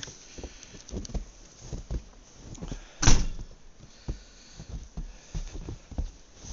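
A door being handled: scattered knocks and clunks, with one loud bang about three seconds in as it shuts.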